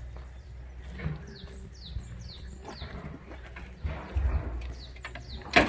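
A bird calling: a quick run of about five short, falling high notes a little after a second in, over a low background rumble. A sharp knock near the end is the loudest sound.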